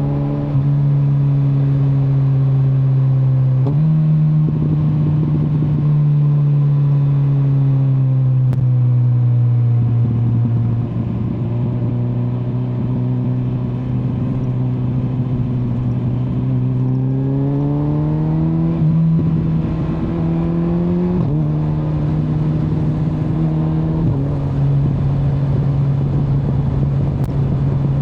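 Kawasaki Z900's inline-four engine under way. Its pitch jumps up sharply a few seconds in and then slowly falls. It climbs steadily in the middle, then drops in two quick steps near the end, as on gear changes, and holds steady.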